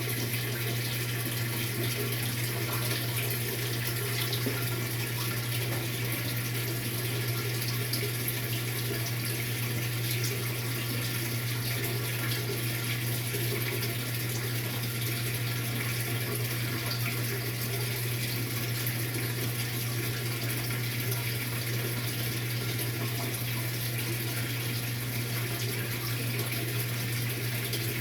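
Maytag MVWX655DW1 top-load washing machine running its tub-clean cycle: water rushes steadily through the tub over a constant low hum.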